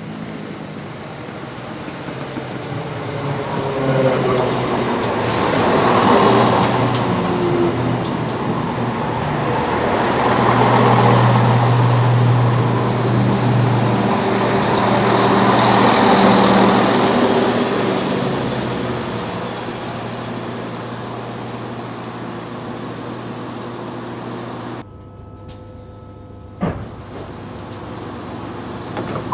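ScotRail passenger train arriving at a station platform: its running noise grows louder as it approaches and rolls past, swelling and easing several times, then settles into a steady hum as it stands. About 25 seconds in the sound drops suddenly to a quieter hum with a single sharp click.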